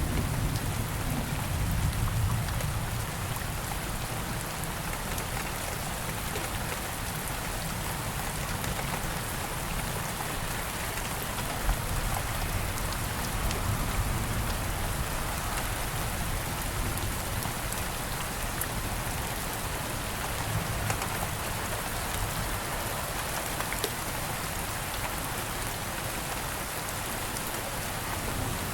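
Steady rain falling, a continuous even hiss with scattered drop ticks. A low rumble of distant thunder dies away in the first few seconds.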